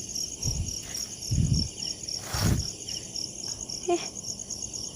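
Crickets chirping steadily in a fast, even pulsing trill. Three soft low thumps about a second apart sound in the first half.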